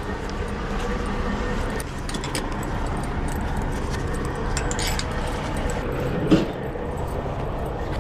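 Metal hooks of bungee cords clinking and jangling as the cords are handled, with one sharper knock about six seconds in, over a steady low rumble.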